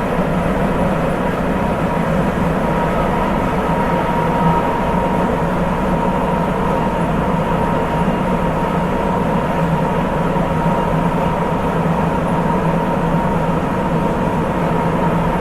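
Sapporo Municipal Subway 8000 series rubber-tyred train running at speed, heard from inside the passenger car: steady, loud running noise with a thin steady whine from the drive underneath.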